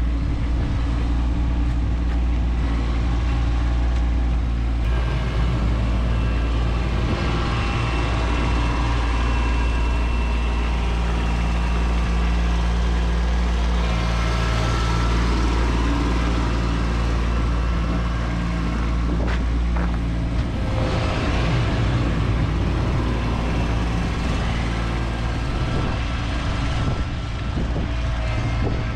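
Kubota B2601 compact tractor's three-cylinder diesel engine running steadily under load, its engine note shifting in pitch a few times. A broad hiss rises over it for a stretch in the middle.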